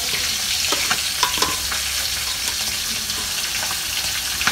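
Sliced banana frying in hot oil in a wok: a steady sizzle with a few scattered pops of spattering oil.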